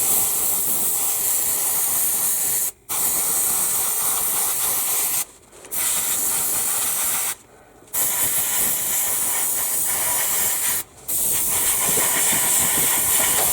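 Airbrush spraying a light coat of paint: a steady hiss of air and atomised paint that stops briefly four times and starts again.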